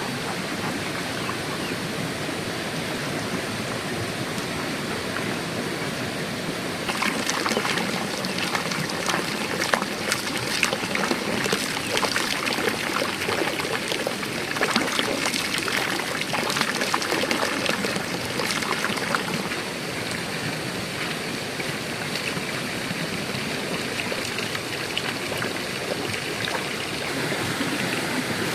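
Water running and splashing steadily, with a busier stretch of spattering splashes in the middle.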